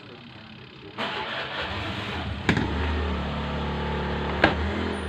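Twin-tub washing machine's spin-dryer motor switched on about a second in, its hum building and settling into a steady low hum as the drum spins up on a freshly replaced run capacitor, now spinning fast. Two sharp clicks, about halfway through and near the end.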